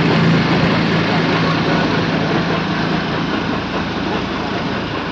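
Train of passenger coaches running past below, a steady rumble of wheels on rail that slowly fades as the train draws away.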